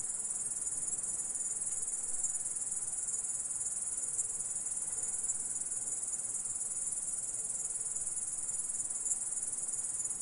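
Grasshopper-type insect stridulating: a steady, unbroken high-pitched trill.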